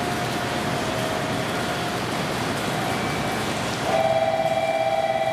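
Train moving at a station platform: a steady rushing hum, with a louder steady whine joining about four seconds in.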